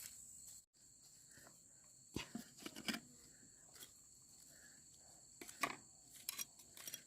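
Crickets chirring steadily, with a scattering of light clicks and knocks.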